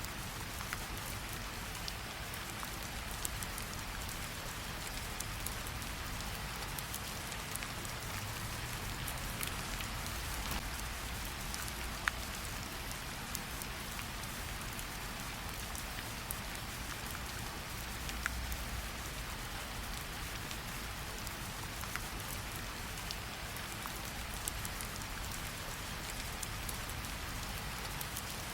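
Steady rainfall on leaves and standing water, with individual drops now and then ticking sharply through the even patter, the sharpest about 12 seconds in.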